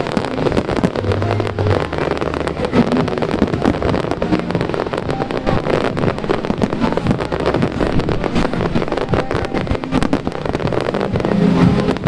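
Fireworks going off in a dense, continuous string of sharp cracks and bangs, crackling without a break.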